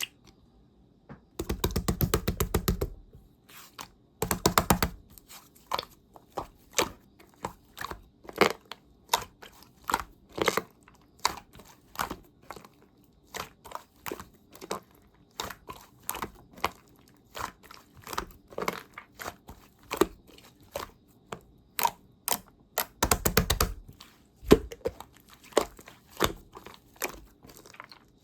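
Slime being squeezed and poked by hand, making sharp irregular pops and clicks. Longer runs of dense crackling come about a second and a half in, again around four seconds, and near the end.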